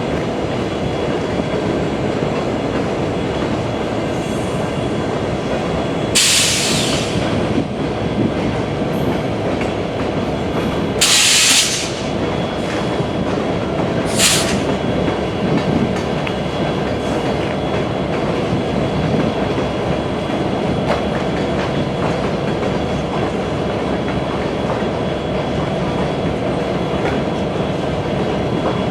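Train rolling past close by: a steady rumble of cars over the rails, with clickety-clack. Three short high-pitched hissing or squealing bursts cut through it, about six, eleven and fourteen seconds in.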